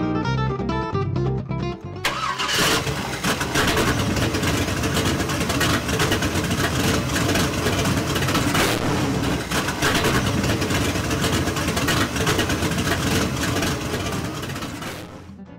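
Guitar music, then about two seconds in a V8 engine starts up and runs loudly. It is the 406 in a 1931 Ford Model A roadster hot rod, and it fades out near the end.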